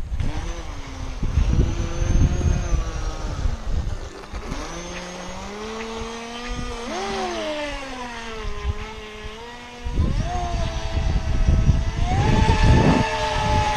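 The motor of a Top Race TR-1200 RC speed boat whines as the boat runs at speed. Its pitch rises and falls with the throttle. Bursts of low rumbling noise come at the start and again in the last few seconds.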